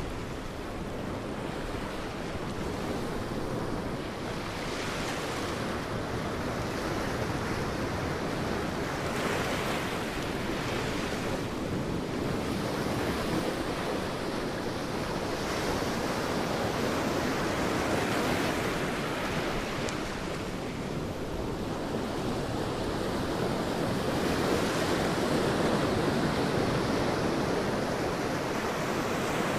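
Sea waves breaking and washing on a beach, a continuous surf that swells and ebbs every few seconds.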